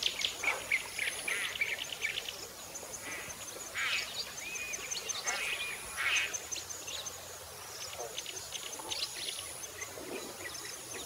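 Birds calling: many short overlapping chirps and calls, with a thin, high steady whine that comes and goes.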